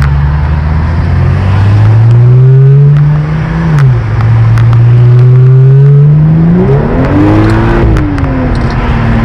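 Exhaust of a 2015 BMW 535i's turbocharged inline-six with the muffler deleted and the resonator kept, accelerating under way: the engine note climbs, drops at a gearshift about four seconds in, and climbs again. Near the end the pitch sweeps up and back down before settling steady.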